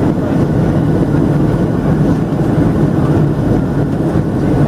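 Steady low rumble inside the cabin of a Boeing 737-700 airliner: jet engines and rushing air, even in level with no distinct events.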